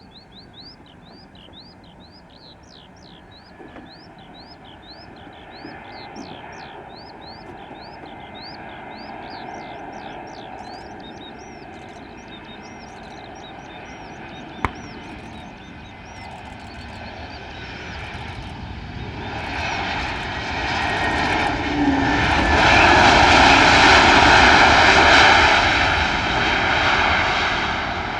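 Airliner coming in to land, its engine noise swelling over about twenty seconds to a loud pass close by, then starting to fade near the end. A bird chirps over and over, about two short calls a second, in the first half, and there is one sharp click about halfway through.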